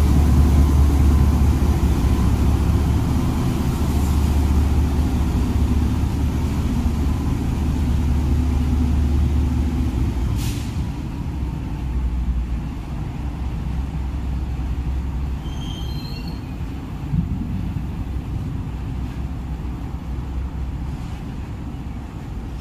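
KTM Class 26 'Blue Tiger' diesel-electric locomotive passing with a deep engine drone that eases off after about ten seconds, giving way to the steady rumble of loaded cement tank wagons rolling by on the rails.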